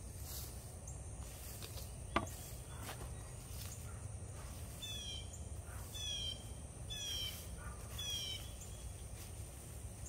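A bird calls four times about a second apart, each a short call falling in pitch, over a steady high insect hum and the rustle of dry hay mulch being pulled back by hand. One sharp click about two seconds in.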